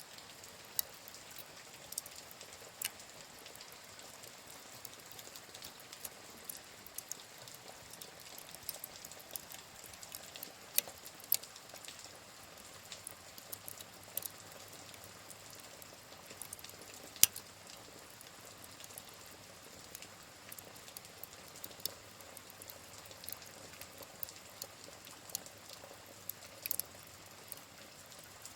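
Steady rain with the crackle of a wood fire: irregular sharp pops and snaps over a soft even hiss, the loudest pop about two-thirds of the way through.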